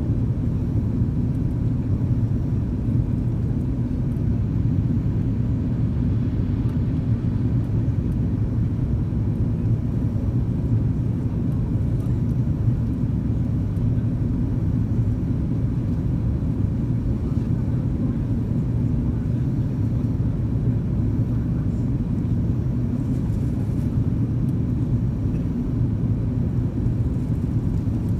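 Steady low cabin rumble of an Airbus A330-202 airliner in flight, engines and airflow over the fuselage, unchanging throughout.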